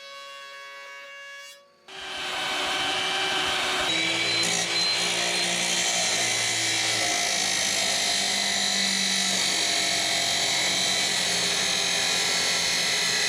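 A woodworking power tool running steadily through wood, loud and continuous, starting about two seconds in with a whine on top of the noise. Before it, a steady hum of several pitches.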